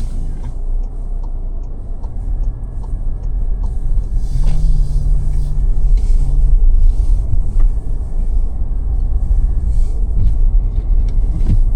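Car driving along the road: a steady low rumble of engine and tyres.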